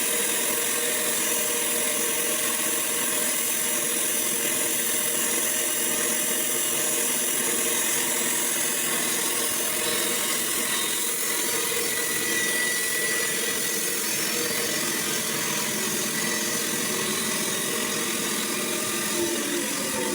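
Sawmill running steadily with a constant machine drone and a high hiss, its note shifting slightly near the end.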